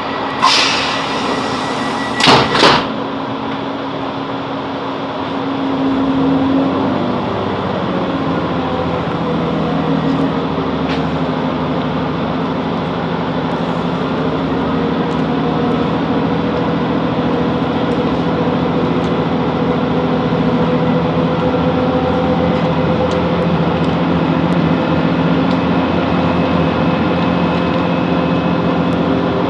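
Class 165 Networker Turbo diesel multiple unit departing a station. Short bursts of hiss from the sliding doors closing come about half a second and two and a half seconds in. Around six seconds in, the diesel engine note rises, then runs steadily as the train gets under way.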